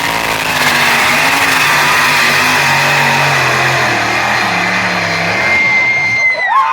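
Twin supercharged, methanol-injected 526 Chrysler Hemi engines of a modified pulling tractor running hard under load, the engine note wavering in pitch, then dropping away near the end.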